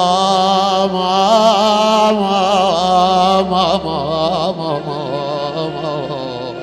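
A man's voice chanting a long, wordless, wavering melismatic line in the style of an Iraqi Shia mourning lament, softening in its last seconds.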